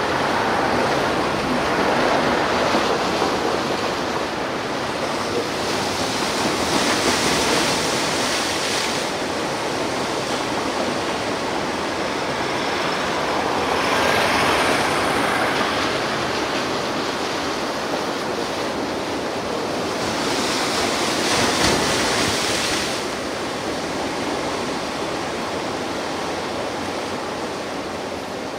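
Ocean surf: waves breaking and washing up on the shore in a continuous rush, swelling louder about every six to seven seconds as each wave breaks.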